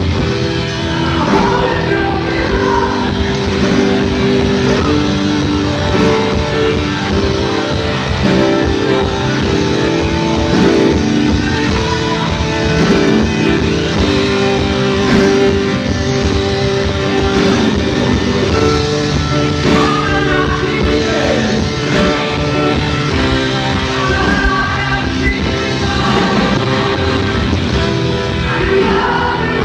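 Rock band playing live: electric guitar over bass and drums, with a sung vocal line coming in at times.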